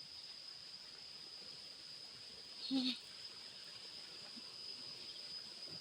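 Steady high-pitched drone of forest insects such as crickets, with a brief low vocal sound about three seconds in.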